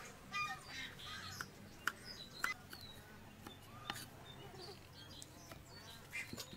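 Small birds chirping on and off, with a few sharp taps, the loudest about two and four seconds in.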